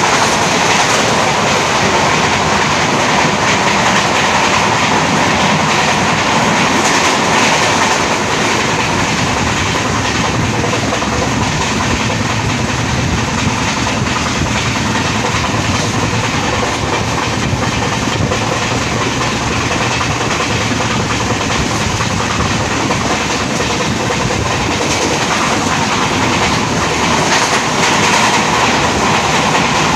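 Passenger coach of the Mandovi Express running along the Konkan Railway: a loud, steady rumble of wheels on the rails with clickety-clack.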